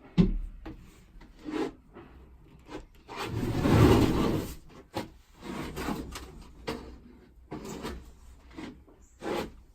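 Handling noises: a string of short knocks and clunks, with a louder scraping rub from about three to four and a half seconds in, as things are moved and shifted.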